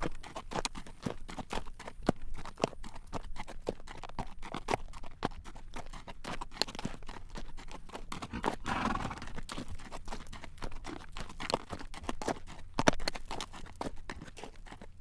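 Horse walking on a road while drawing a carriage, its hooves clacking in a steady clip-clop of several sharp strikes a second. About halfway through there is a brief rushing noise lasting about a second.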